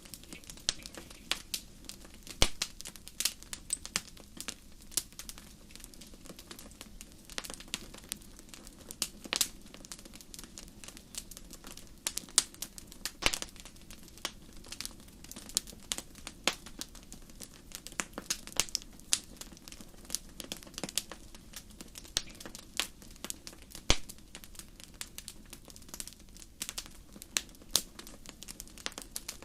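Wood fire burning in a fireplace, crackling with irregular sharp pops over a low steady hiss.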